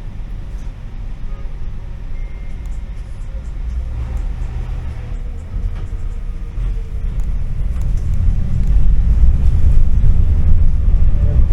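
Tram running, heard from inside the car: a steady low rumble of wheels on rails and running gear that grows louder about eight seconds in.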